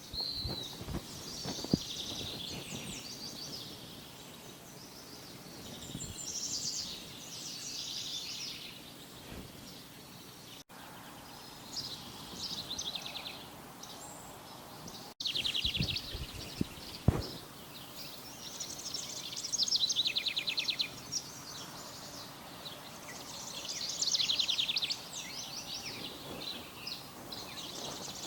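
Birds singing in repeated bouts of rapid trills over a steady outdoor background hiss, with a couple of sharp clicks.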